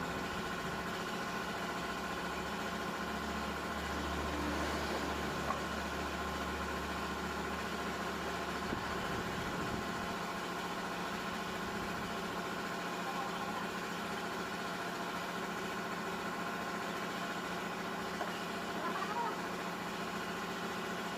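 Car engine idling steadily, with a deep low hum that falls away about nine seconds in.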